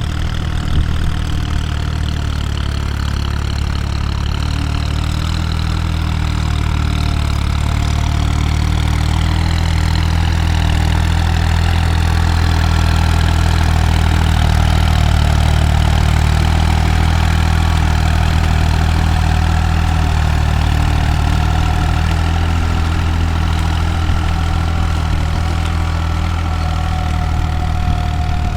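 JX50T tractor's diesel engine running steadily at a low, even speed, growing slightly louder midway and easing back.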